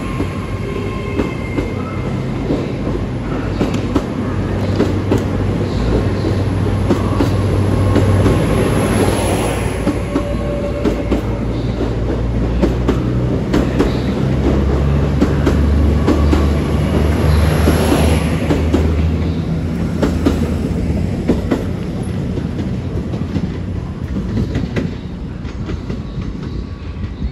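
A GWR Hitachi IET bi-mode train pulls out of the platform under diesel power, passing close by. Its underfloor engines drone low, strongest around the middle, under a steady clickety-clack of wheels over the rail joints. The sound eases off near the end as the train draws away.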